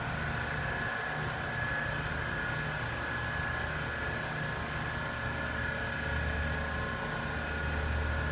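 Electric AC-drive turret truck forklift running: a steady high whine over a low hum, with the low hum growing louder about six seconds in.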